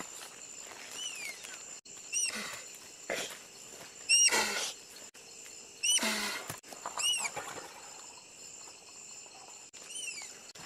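Tapir calling with short, high, shrill squeaks, each falling in pitch, about six of them, mixed with louder rough blowing bursts around the middle.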